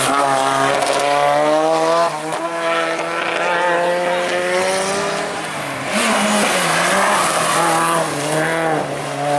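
Hillclimb race car engine accelerating hard, its revs climbing, dropping on an upshift about two seconds in and climbing again. From about six seconds the revs fall and rise in short blips, as on downshifts into a bend.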